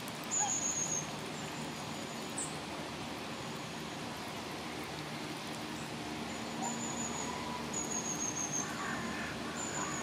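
Short, high, thin bird calls repeating at irregular intervals over a steady low background hum.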